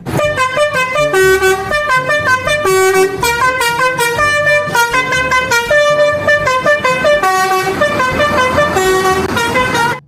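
Telolet bus horn: a multi-tone musical air horn on a coach bus, playing a quick melody of notes that step from pitch to pitch.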